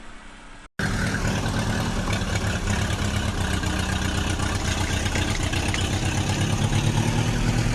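A heavy vehicle engine idling steadily with a fast low throb, cutting in abruptly about a second in after a brief silence.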